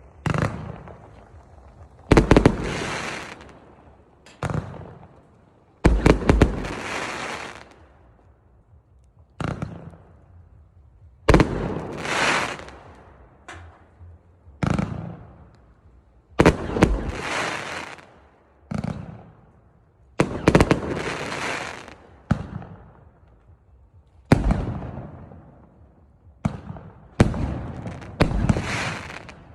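A 568-shot fireworks cake of 1-, 1.2- and 2-inch tubes firing shells one after another, about one every two seconds. Each is a sharp bang followed by a hissing tail that fades over a second or two.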